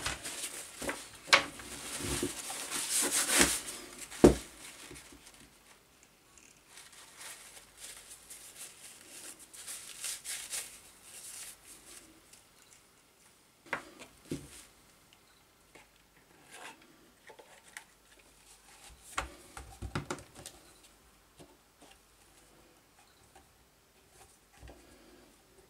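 Hand work on small motor parts: scattered knocks and clicks of parts being handled and set down, with stretches of hissy rubbing and scraping.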